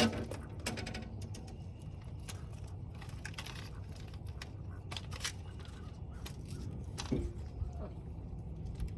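Fishing rods and tackle being handled: a string of irregular small clicks and rattles over a steady low rumble.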